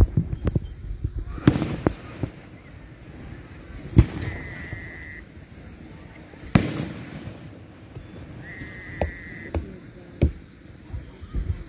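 Aerial fireworks bursting: about five sharp booms a second or more apart, with smaller pops and crackling between them. Twice a steady high whistle lasts about a second.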